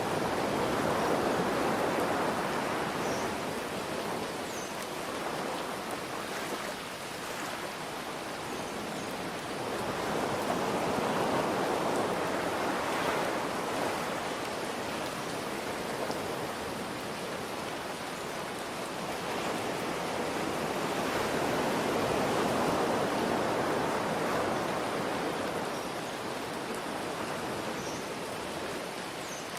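Steady rain hiss mixed with ocean waves washing in and receding, the surf swelling about every ten seconds.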